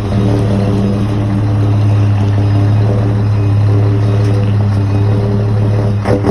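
Scania truck's diesel engine running steadily through its exhaust, breaking into quick uneven pulses near the end as the revs change.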